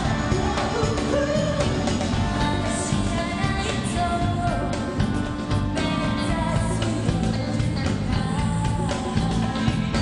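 Dance-pop song playing, with a woman singing lead over a full band.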